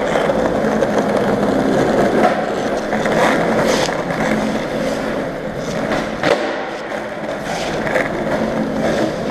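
Skateboard wheels rolling steadily over a concrete car-park deck, with a few sharp clacks from the board through the run.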